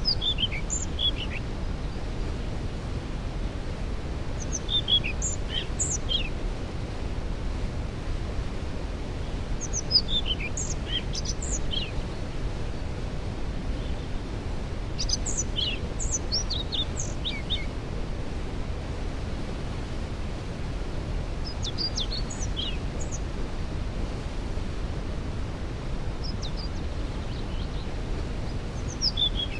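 Steady rushing roar of a waterfall, with a songbird repeating a short phrase of high, falling notes about every five seconds.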